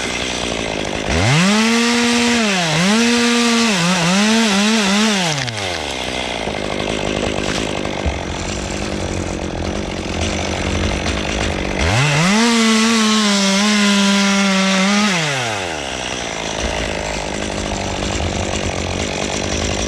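Two-stroke chainsaw revved hard in three or four quick bursts, then running lower with a steady rumble. About twelve seconds in it is held at full throttle for about three seconds, its pitch dipping slightly partway through, before dropping back.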